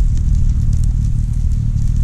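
Campfire crackling with scattered sharp pops, over a loud, steady low rumble.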